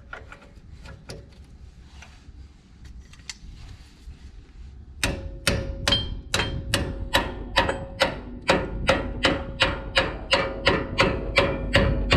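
Light clinking of tools, then about five seconds in a hammer starts striking metal in a steady rhythm of roughly two to three blows a second, the metal ringing between blows.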